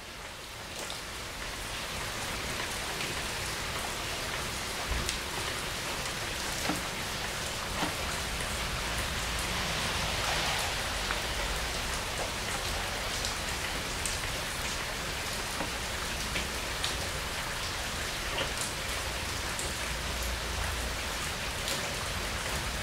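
Heavy rain falling on leaves: a steady hiss with many scattered sharper drip ticks, fading in over the first couple of seconds.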